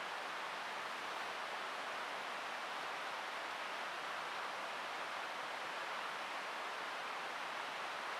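Steady, unchanging rush of flowing water, with no separate sounds standing out.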